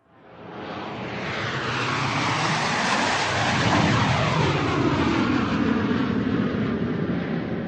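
Airplane flying overhead: a rushing engine noise fades in from silence, grows loud over the first three seconds, then holds and eases slightly, with a sweeping, shifting tone as it passes.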